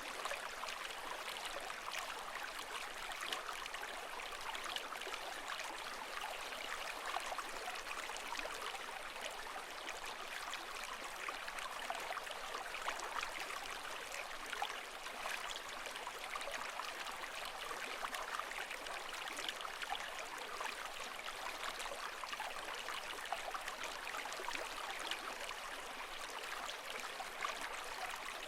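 Water flowing steadily, a continuous rush full of fine trickling and bubbling, with no rise and fall of waves.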